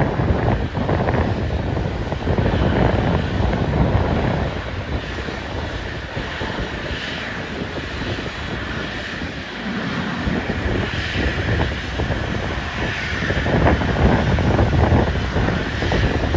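Aircraft engine noise mixed with gusty wind buffeting the microphone, with a faint steady whine joining in the second half.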